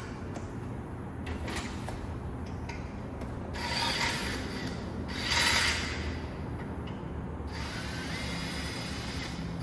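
Hand tools working rusted fasteners loose on a 1977 Corvette headlight assembly: metal clicking and scraping in several short spells, the loudest about five seconds in.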